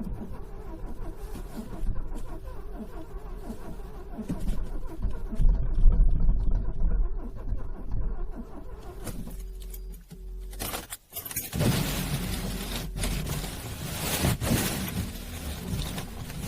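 Car engine being cranked by its starter in freezing cold, struggling to start. There is a brief break about eleven seconds in, after which the cranking resumes.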